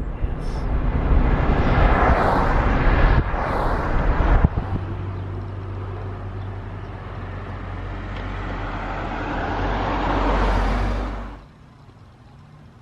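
Motor vehicle noise: a rushing sound for the first few seconds, then a steady low engine hum that slowly grows louder and cuts off abruptly near the end.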